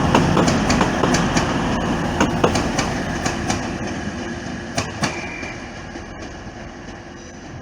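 TransPennine Express class 185 diesel multiple unit's wheels clicking over rail joints and points, over a rumble that fades steadily as the train rolls in to the platform.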